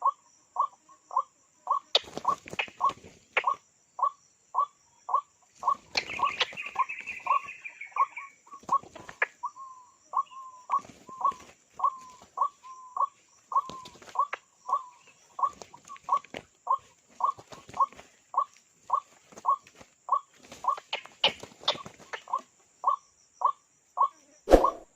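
A bird calling one short, slightly falling note over and over at an even pace, about three calls every two seconds. Scattered clicks and knocks run alongside, and a brief higher chatter comes about six seconds in.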